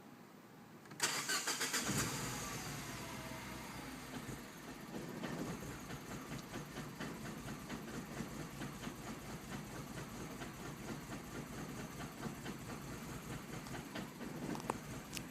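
2007 MINI Cooper S's 1.6-litre four-cylinder engine cranking for about a second before it catches. The revs flare and fall away, then it settles into an uneven, rough idle. This is the hard-start and rough-idle-on-start that shows up after the car has sat for hours following a hot run.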